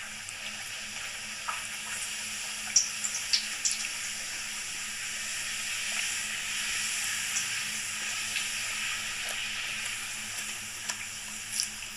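Close-up eating sounds: a few sharp, crisp crunches over a steady hiss, about three seconds in and again near the end.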